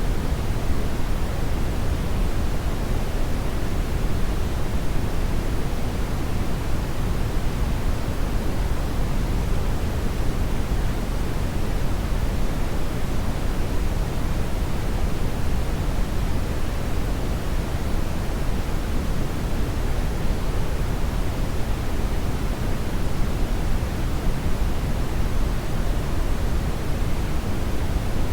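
Hair dryer blowing continuously, a steady, even rush of air that is strongest in the low end, with no change in speed.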